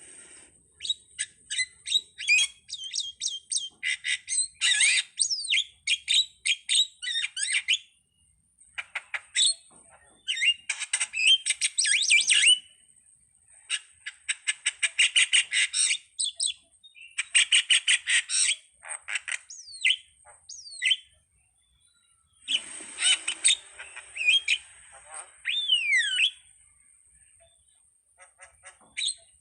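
Jalak (Indonesian starling) singing in phrases of rapid chattering notes and sliding whistles, each a few seconds long with short pauses between. A faint steady high-pitched tone runs underneath.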